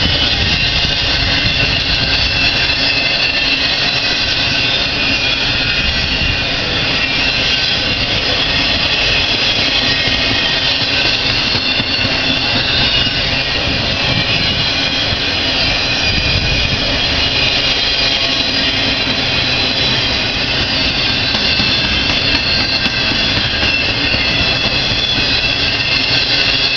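Empty intermodal freight cars rolling past at speed: a steady, loud, high-pitched rush of steel wheels on rail, with a low rumble underneath.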